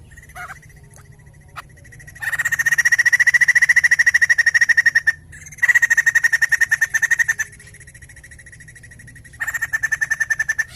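Poksay jambul (laughingthrush) calling in three long, fast rattling trills, each a stream of rapid even notes at one steady pitch. The trills start about two seconds in, the second comes after a short break, and the third starts near the end; a faint low hum runs underneath.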